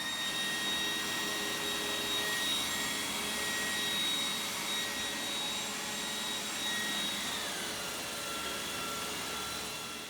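Robot vacuum running, its motor giving a steady high whine over the hiss of its suction. About seven and a half seconds in, the whine glides down to a lower pitch.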